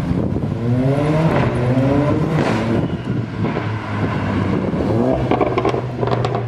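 Straight-piped exhaust of a Mercedes-AMG CLA 45's turbocharged inline-four, revving up in a few rising pulls over a steady drone, with a run of sharp pops near the end.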